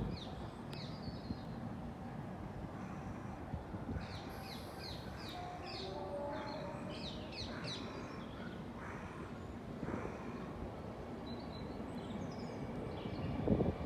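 Birds chirping, with a quick run of short high chirps in the middle, over steady low background noise.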